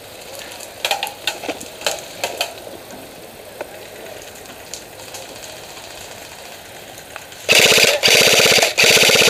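Airsoft gun firing on full auto: two long rapid bursts near the end, the second following a brief break, after a few scattered sharp shots or cracks about a second in.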